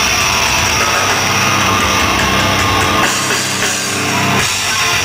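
Three-piece rock band (distorted guitar, bass and drum kit) playing a heavy instrumental passage live and loud.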